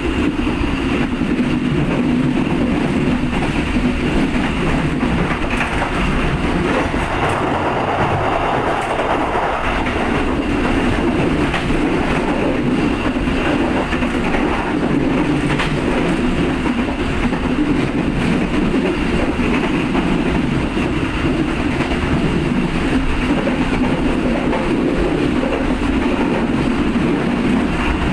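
Steady running noise of the KA Dhoho local economy passenger train in motion, a continuous rumble of the coach and wheels on the track, heard from on board.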